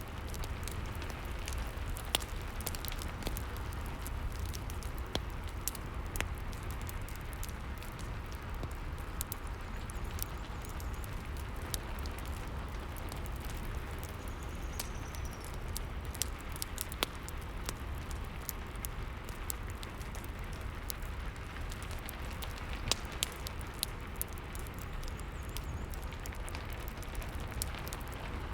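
Steady rain mixed with a fireplace crackling, with scattered sharp pops and crackles over a low rumble.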